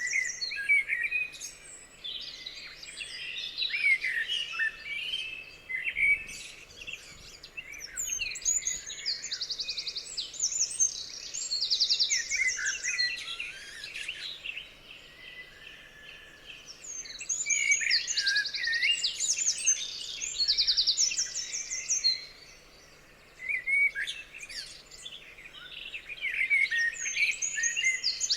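Several songbirds singing and calling at once: overlapping high chirps and slurred notes, with fast, high trills recurring every few seconds. The singing dips briefly about three quarters of the way through.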